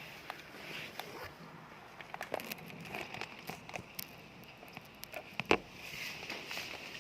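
Rain falling, with irregular drops ticking and tapping on a hard surface, and one louder knock about five and a half seconds in.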